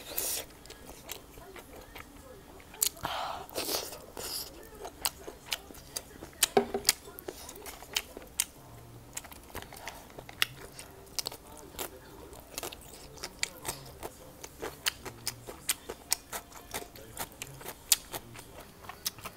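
Close-miked chewing and biting of food, with many sharp, crisp clicks a few times a second and a longer wet, noisy stretch about three seconds in.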